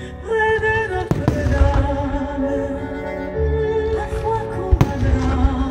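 Pyromusical fireworks show: music with long held notes plays while firework shells burst in sharp bangs, a close pair about a second in and another near the end.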